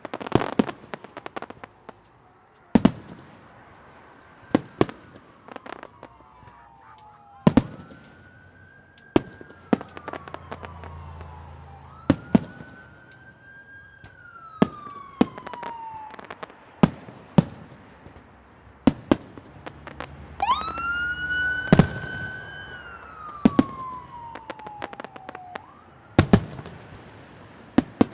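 Fireworks shells bursting in sharp bangs every second or two. Over them a siren wails again and again, each wail rising quickly and then falling slowly over several seconds.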